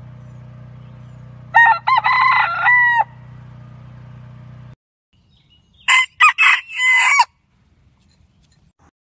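Rooster crowing twice, two separate cock-a-doodle-doo calls a few seconds apart. The first is over a steady low hum, which cuts off abruptly; the second is sharper and brighter.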